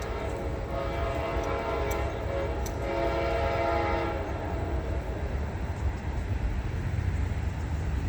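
Locomotive horn sounding a held chord of several tones, which fades out about four seconds in, over a steady low rumble.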